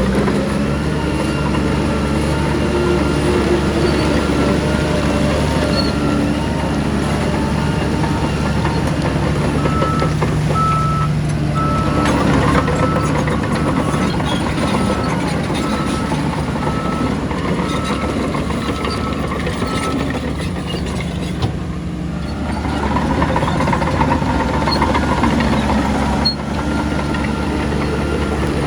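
Heavy earthmoving machinery's diesel engines running steadily. A reversing alarm beeps in a steady repeating pattern for about ten seconds in the middle.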